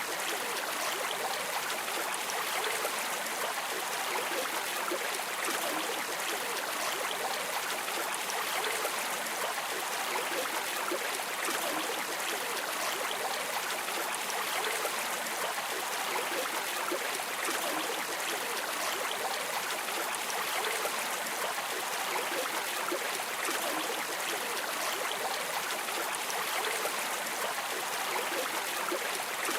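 River water streaming steadily: an even rushing and splashing with no breaks.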